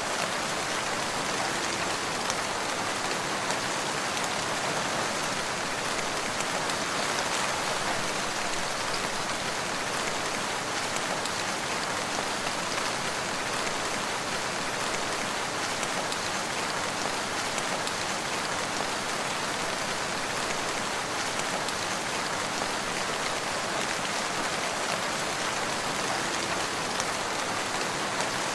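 Steady rain falling, an even hiss of many drops with a few louder single drops now and then.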